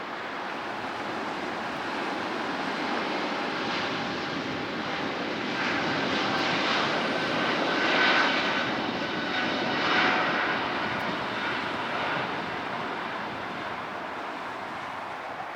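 Jet airliner passing close by, its engine noise swelling to a peak partway through and then fading, with a steady whine over the rumble.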